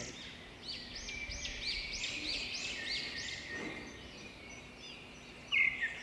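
A bird calling: a quick series of about eight repeated high, arching notes, then louder short chirps near the end.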